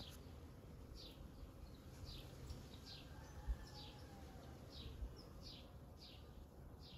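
A small bird calling over and over in short, high, falling notes, about one or two a second, faint. Two brief low thumps come about halfway through.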